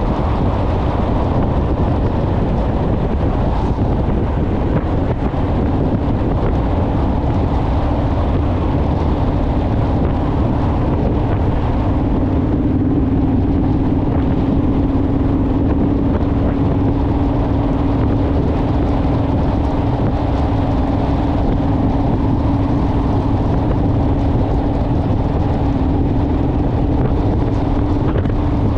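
Honda Rebel motorcycle's parallel-twin engine running at a steady cruise under heavy wind rumble on the microphone. The engine's steady hum comes up stronger about a third of the way through.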